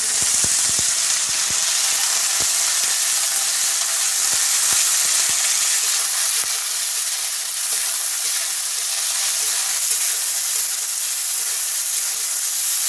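Green peas and onion frying in hot oil in a kadhai, stirred with a metal spatula: a steady, high sizzling hiss, with a few light clicks in the first couple of seconds.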